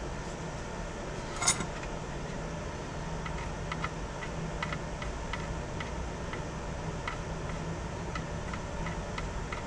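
Soldering iron tip tapping and dragging across the solder pads of an Xbox One S motherboard as they are re-tinned for a new port: small irregular ticks, with one louder click about a second and a half in, over a steady low hum.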